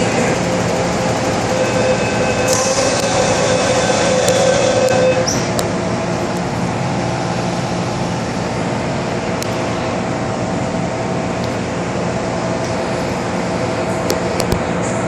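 Hong Kong MTR metro train running through the tunnel, heard from inside the car: a steady running rumble, with a whine that rises a little over the first five seconds and then fades out, and a few sharp clicks near the end.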